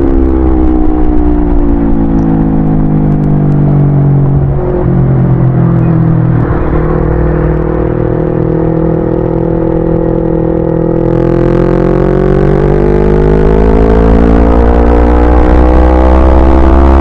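Yamaha YZF-R25's parallel-twin engine on the move: the revs fall steadily for the first several seconds as the bike slows, hold low, then climb again about two-thirds of the way through as it accelerates. A steady low wind rumble runs underneath.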